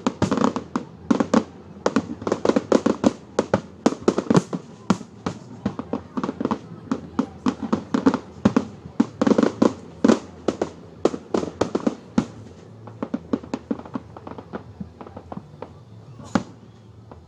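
Fireworks display: a rapid, dense string of bangs, several a second, thinning out after about twelve seconds to scattered pops, with one last bang shortly before the end.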